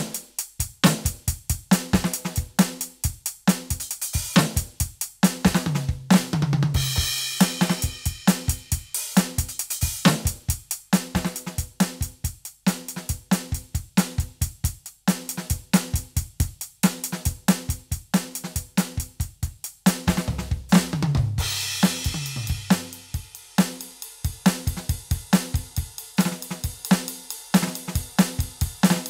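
Roland TD-17 V-Drums module kit sounds played as a steady groove of kick, snare and hi-hat. Twice, about six seconds in and again past the twenty-second mark, a falling tom fill leads into a cymbal crash.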